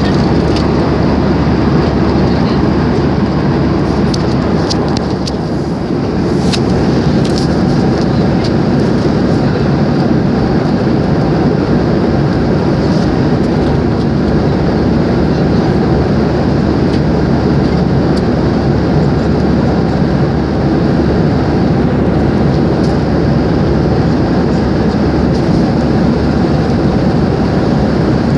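Steady airliner cabin noise: the rumble of the jet engines and airflow heard from inside the cabin, with a few faint clicks about five seconds in.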